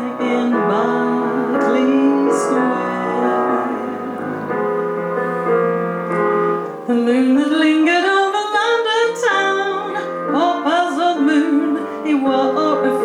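A woman singing a slow ballad melody with held, wavering notes over piano accompaniment.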